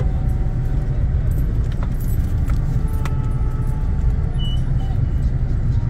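Steady low rumble of a car on the road, heard from inside the cabin, with a few faint clicks over it.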